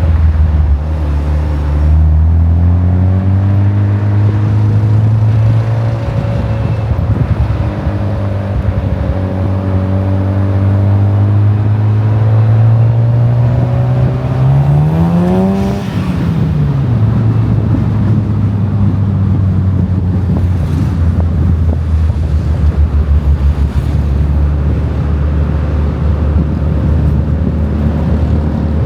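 Sports car engine under way, its pitch climbing as it accelerates, then rising steeply to a peak about fifteen seconds in before dropping suddenly. It then settles into a low, steady drone.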